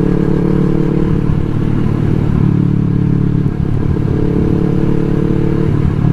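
Yamaha R3's parallel-twin engine running at a steady speed, charging a battery that had run too low to start the bike easily.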